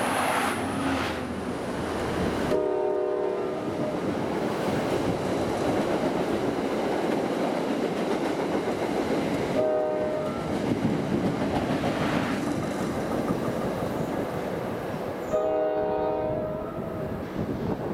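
Diesel commuter train passing directly beneath: the Alstom PL42AC locomotive runs under first, then the coaches roll by with steady wheel-on-rail clatter that eases as the train's tail clears. Over the rumble the locomotive's horn sounds three times from up ahead: a longer blast, a short one, and a longer one.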